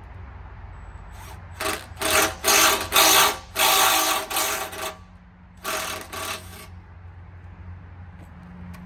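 A small power tool run in a string of short bursts over about five seconds, with a brief pause before the last two.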